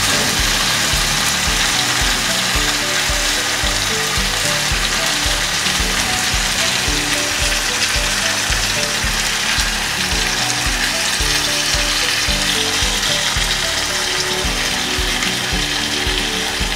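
Chicken pieces, garlic and onion in fresh tomato sauce frying steadily in a wok, a continuous sizzle. Background music with a steady beat plays underneath.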